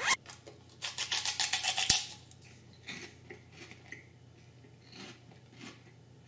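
A crispy fried pork rind (pork skin) being bitten and chewed: a crack as it is bitten, then a quick run of loud crunches for about a second, then softer, scattered crunching.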